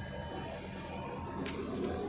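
Hyundai HX220 HD excavator's diesel engine running steadily, with a couple of faint clicks in the second half.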